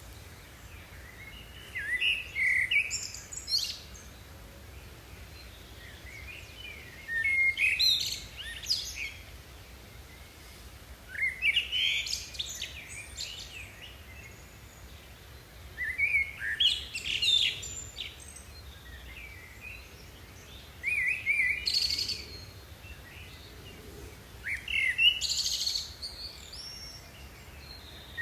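A songbird singing, a short phrase of chirping notes about every four to five seconds.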